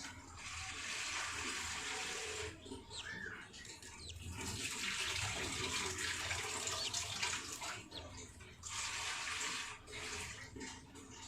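Water running in three spells, a few seconds each, with short pauses between.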